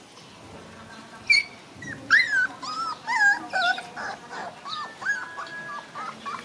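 Baby monkey crying: a run of short, high cries that rise and fall in pitch, beginning about a second in and loudest in the first two.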